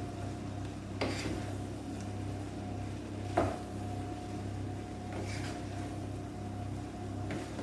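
A metal spoon clinking and scraping against a pot of fried rice a few times, the loudest knock about three and a half seconds in, over a steady low hum.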